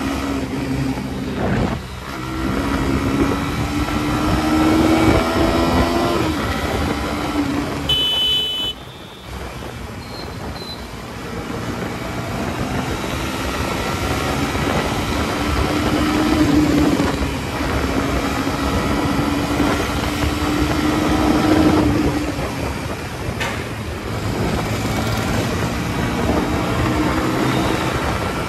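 Motor vehicle engine running under way, its pitch slowly rising and falling with the revs, over steady road and wind noise. There is a brief drop about nine seconds in.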